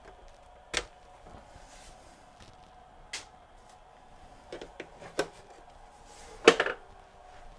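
A handful of scattered sharp clicks and knocks, the loudest a quick cluster about six and a half seconds in, over a faint steady hum.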